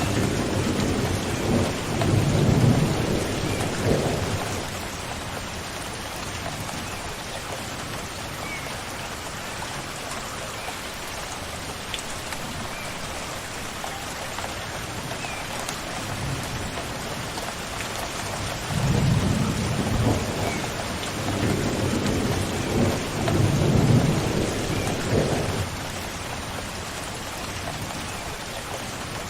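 Steady rain falling, with distant thunder rumbling low at the start and again in a longer roll in the second half.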